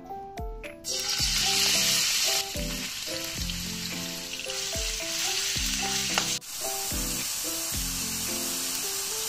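Cubed pork belly sizzling as it fries in hot oil in a wok, starting suddenly about a second in and loudest for the first second or so after it goes in. Background music with a steady beat plays over it.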